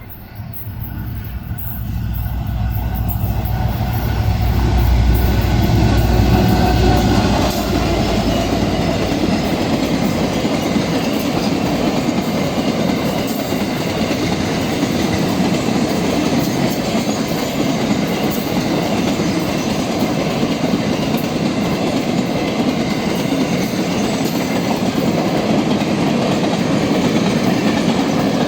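Diesel freight locomotive D-2351 passing close with a deep engine rumble that builds and peaks about five seconds in, then fades as a long string of log wagons rolls steadily by on the rails.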